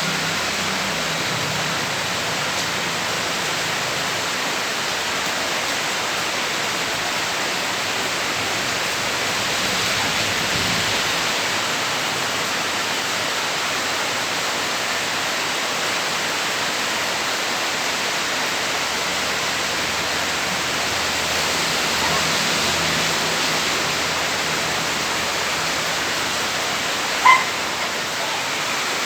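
Heavy rain falling, a steady hiss without a break. A brief sharp sound cuts in once near the end.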